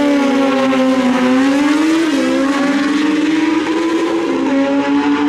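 Stock sportbike drag-racing motorcycle at full throttle down the strip just after launch, its high engine note holding steady with two brief steps in pitch as it shifts gears.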